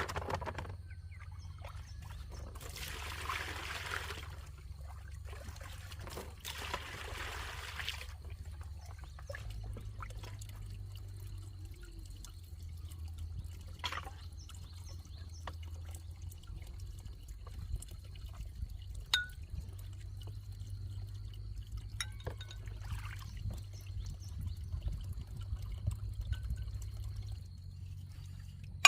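Water being poured twice, each pour lasting about two seconds, followed by scattered small clicks and knocks over a low steady hum.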